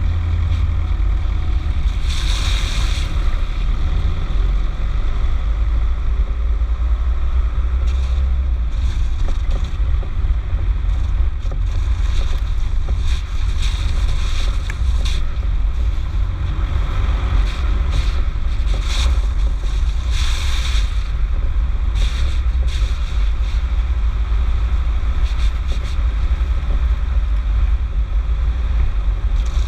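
Skoda Octavia 1.9 TDI four-cylinder turbodiesel engine running with a deep, steady low rumble. Several rushes of hiss come and go over it.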